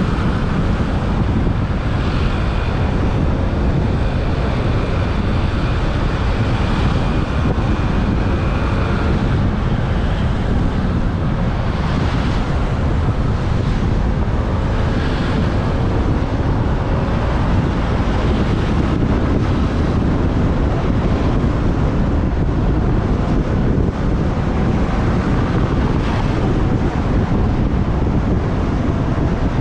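Steady wind buffeting the microphone of a moving motorbike, with engine and traffic noise underneath.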